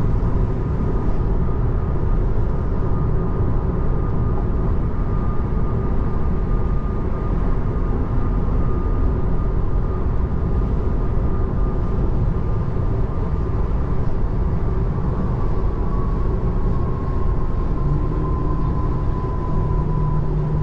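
Road and tyre noise inside a 2024 Tesla Model 3's cabin at freeway speed: a steady rumble with a thin whine that falls slightly in pitch near the end.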